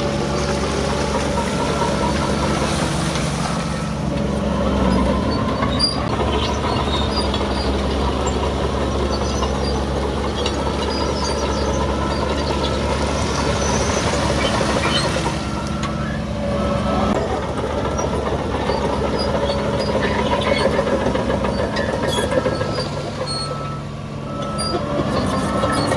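Heavy diesel earthmoving machinery running steadily under load, with scattered high metallic squeaks and clinks over the engine.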